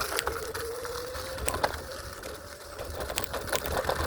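Electric scooter riding along: a thin, steady motor whine that drifts slightly in pitch and fades about halfway through, with scattered clicks and rattles from the ride and a low wind rumble on the phone's microphone.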